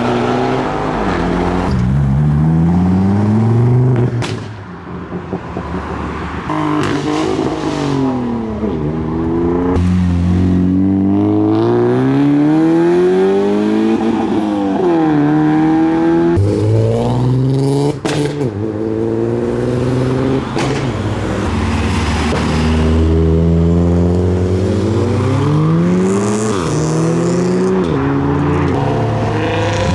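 Modified cars accelerating away one after another, their engines revving up through the gears, pitch rising, dropping at each change and rising again, with a few short sharp cracks.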